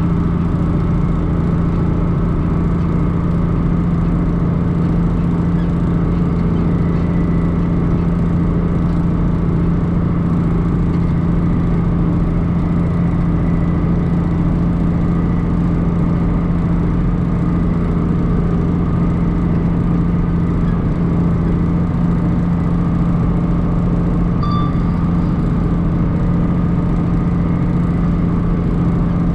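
Tractor's diesel engine running at a steady speed with a constant drone.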